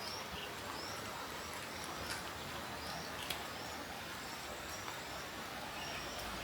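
Steady hiss of rain with a small bird repeatedly giving short, high, rising chirps, and a few sharp taps of drops.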